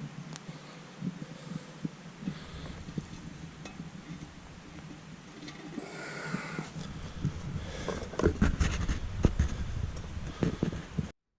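A person's breathing and rustling with scattered knocks, growing louder and busier in the second half, then cutting off abruptly near the end.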